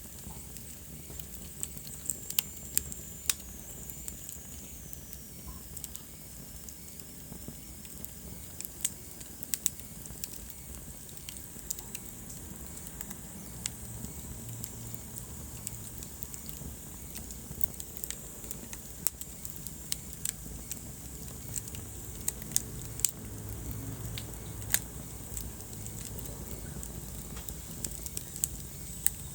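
Wood fire burning in a fireplace: sharp crackles and pops at irregular intervals over the steady low rumble of the flames.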